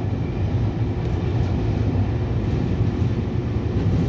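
Steady running noise inside a commuter electric multiple-unit train carriage: a low rumble of the train under way, with a faint steady hum.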